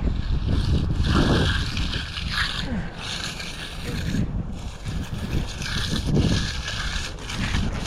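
Wind buffeting the microphone in gusts, a heavy, uneven rumble with hiss above it.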